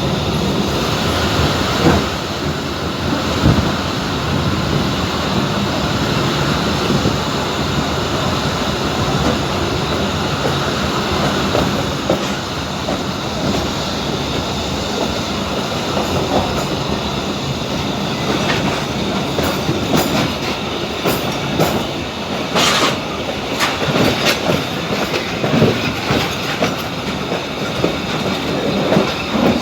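Abu Qir line passenger train running on the rails: a continuous rumble of wheels with clicking and knocking from the track. The sharp clicks come more often in the second half.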